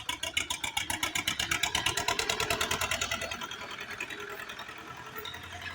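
Tractor diesel engine running with a fast, even chug of about nine beats a second. It is loud for the first three seconds, then drops to a lower level.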